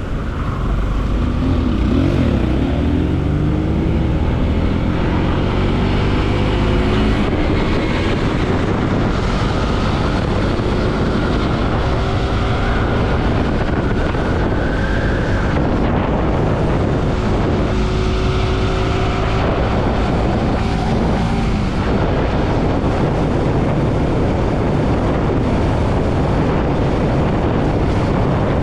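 Bajaj Pulsar NS200's single-cylinder engine running as the motorcycle rides in traffic, its pitch rising and falling with the revs, over a steady rush of wind on the microphone.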